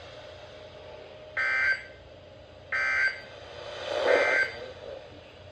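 NOAA Weather Radio SAME end-of-message data bursts: three short, harsh digital buzzes about a second apart, marking the end of the warning broadcast.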